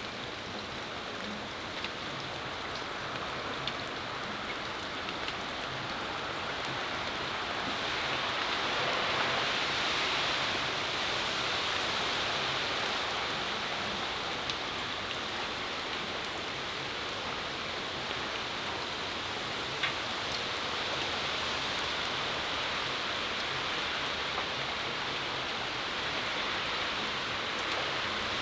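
Steady rain falling on a patio, an even hiss with the odd louder drip ticking on a hard surface. The hiss swells louder for a few seconds about a third of the way in.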